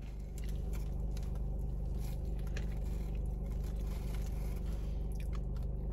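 Quiet chewing of a mouthful of burger, with a few faint soft clicks, over a steady low hum inside a car.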